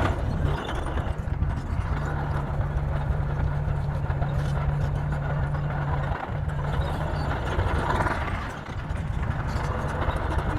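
Bulldozer's diesel engine running steadily under load at a constant low hum.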